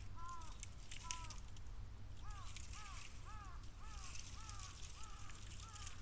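A bird calling in a run of short arched notes, two slow ones at first and then a quicker series of about two to three a second from about two seconds in. Under it, light crackling and popping from bamboo burning in a bonfire.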